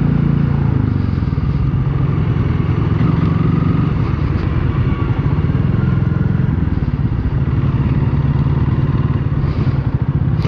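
Single-cylinder motorcycle engine running at low speed, with a steady low note that swells and eases slightly.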